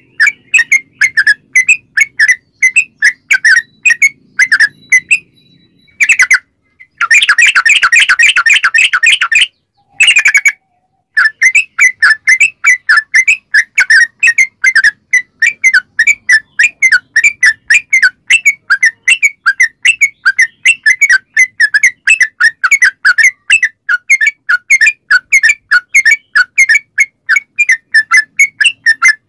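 Yellow-vented bulbul (trucukan) singing a long rapid-fire song: short chirping notes repeated about five a second, breaking into a dense continuous trill for a couple of seconds about seven seconds in, then back to the quick repeated notes.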